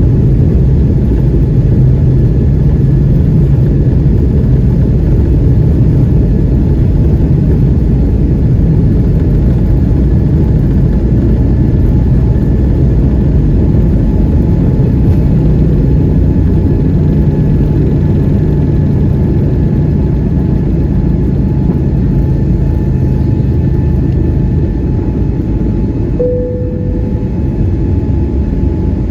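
Loud, steady cabin rumble of an Airbus A320neo's engines and airflow under takeoff and climb power, with a faint whine above it. A brief single tone sounds near the end.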